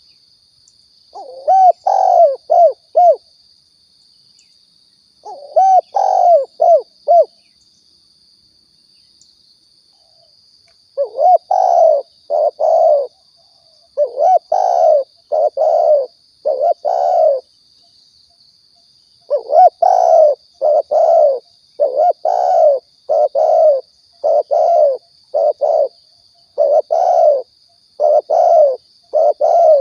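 Spotted doves cooing: phrases of several short, low coos repeated in bouts, sparse at first and coming almost continuously from about eleven seconds in. A faint steady high whine runs underneath.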